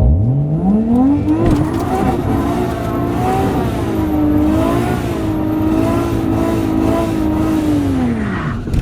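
Nissan 180SX's RB25DET turbocharged straight-six revving up hard in about a second and a half and held at high revs, wavering slightly, through a second-gear burnout. The revs drop away near the end.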